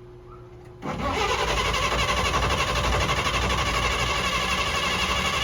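Starter motor cranking the engine of a 1948 Chevy truck, which does not catch. It starts suddenly about a second in and cranks on steadily.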